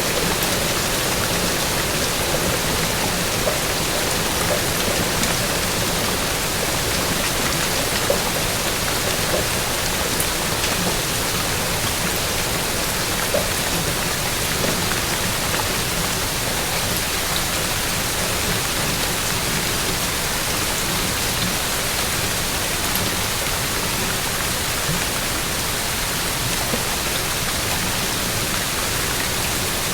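Steady rain, an even hiss with the odd sharper drop tick standing out.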